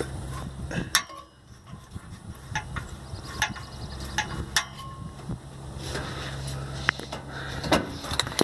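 Small engine running through an aftermarket muffler with a throttle valve, a steady low hum that drops away about a second in and comes back a second or so later. Sharp clicks and knocks sound over it throughout.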